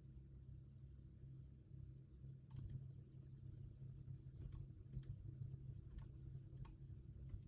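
Scattered light clicks, about six over a few seconds and some in close pairs, starting a couple of seconds in, over a faint steady low hum: quiet desk work at a computer.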